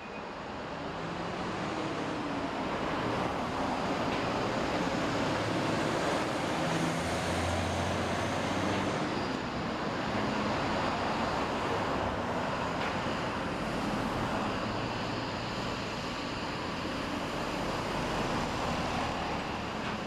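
Road traffic noise: a steady wash of passing vehicles, with the low hum of an engine standing out briefly in the middle.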